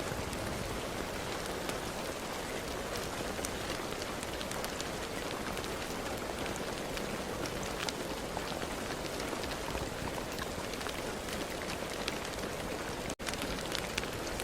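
Steady rain falling, an even hiss dotted with many sharp ticks of single drops striking. The sound cuts out for a split second about thirteen seconds in.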